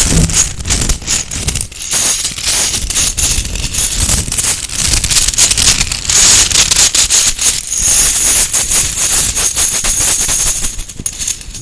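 Close-miked ASMR rattling and clattering of small hard objects, a dense unbroken run of clicks and rustling, fading out near the end.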